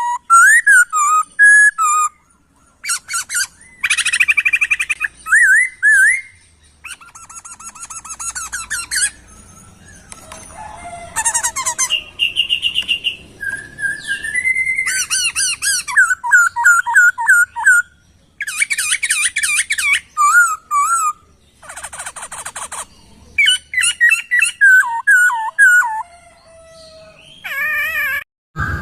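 Poksay (laughingthrush) singing a long varied song: clear whistled phrases, fast buzzy trills and runs of repeated slurred notes with short pauses between them.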